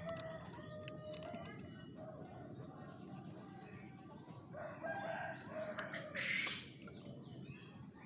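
Bird calls: faint short calls throughout, and a louder call of about two seconds around the middle.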